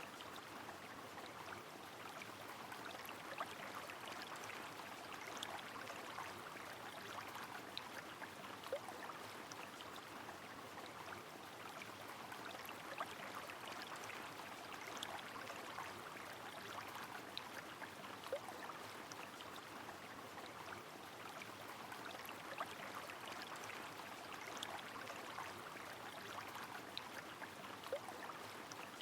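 Rain over a flowing river: a steady watery rush with scattered drops ticking here and there.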